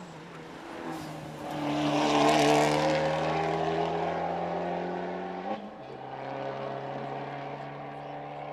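A race car accelerating hard up a hill-climb course and passing close by, its engine note climbing as it goes. It shifts up about two-thirds of the way through, with a sudden drop in pitch, then keeps pulling away at a lower, steady note.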